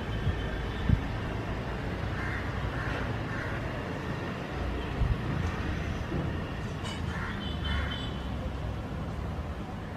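Outdoor background of a steady low rumble, like distant traffic, with a few faint bird calls and two dull thumps, about a second in and about five seconds in.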